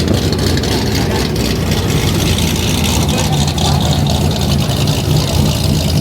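Car engines idling with a steady low rumble, over a background of voices.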